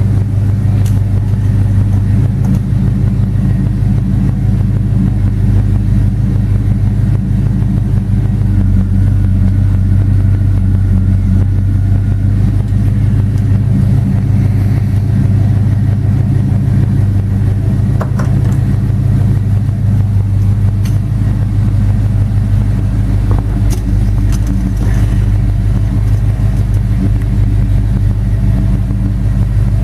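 Oldsmobile 455 cubic-inch V8 of a 1971 Cutlass S running at a steady, even speed, with a low exhaust note.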